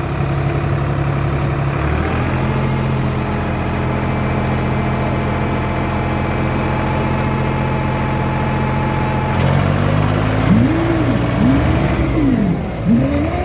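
Diesel tractor engines straining under tug-of-war load. The revs step up about two seconds in and hold high and steady, then swing up and down repeatedly over the last few seconds as the engines labour.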